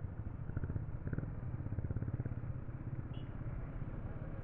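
Motorcycle engine running while riding on the road: a steady low drone with rapid, even pulsing that grows a little louder about a second in.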